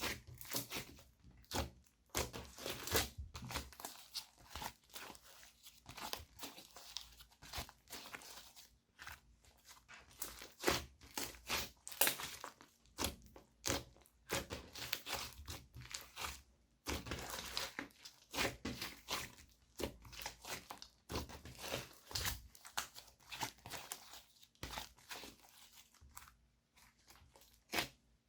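Slime being squished, stretched and kneaded by hand, giving irregular runs of sticky crackles and pops.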